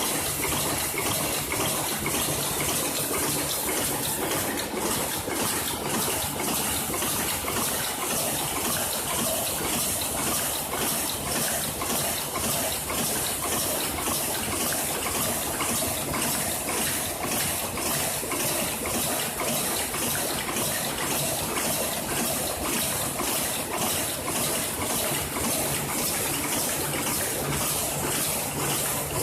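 Automated production machine running: a steady hissing noise over a low hum, with a regular beat of a little under two strokes a second setting in about four seconds in.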